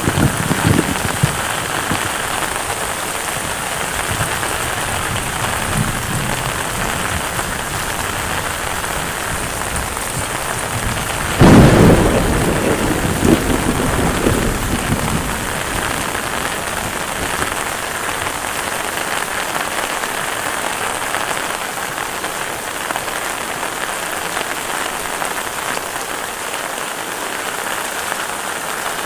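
Heavy rain falling steadily. About eleven seconds in, a sudden loud clap of thunder rumbles away over a few seconds.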